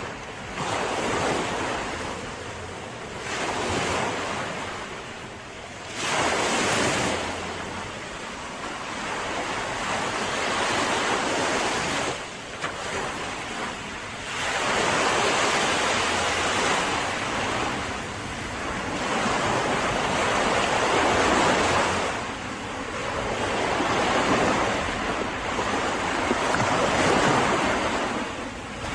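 Mediterranean sea waves breaking and washing onto a beach, the surf rising and falling in swells every few seconds, with sharper surges about 6, 14 and 22 seconds in.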